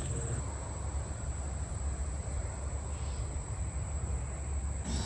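Steady high-pitched drone of an insect chorus, with a low steady rumble underneath.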